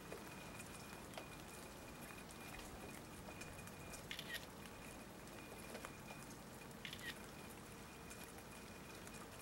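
Faint rain and dripping water: a steady hiss with scattered small drips and ticks, and a couple of brief, slightly louder clicks about four and seven seconds in.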